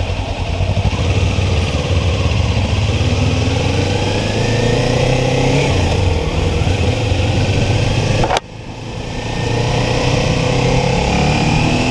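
Kawasaki Ninja 400 parallel-twin motorcycle engine accelerating away from a stop, its pitch climbing through the gears. There is a brief sudden dip about two-thirds in at an upshift, after which it pulls again.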